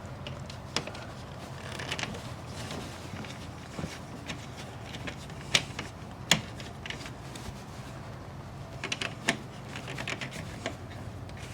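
Scattered light clicks and taps of tools and screws as old screws are worked out of a storm door hinge.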